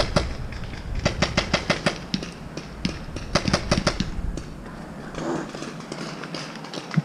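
Paintball markers firing rapid strings of shots, about seven a second, in two main bursts with scattered single shots between.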